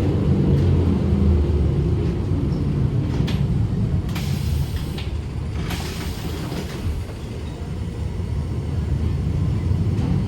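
Heritage tram running on its rails: a steady low rumble, with two short hisses about four and six seconds in.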